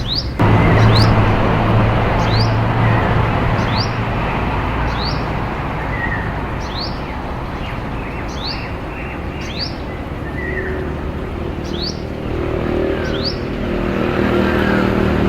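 Olive-backed sunbird calling: short, high, sharp notes repeated about once a second. Under it, a steady engine-like hum and rushing noise sets in about half a second in and stays louder than the calls.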